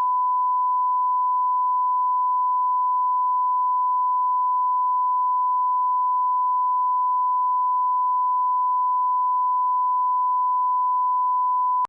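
Steady 1 kHz sine-wave line-up test tone at −18 dBFS: a single pure, unchanging tone at constant level.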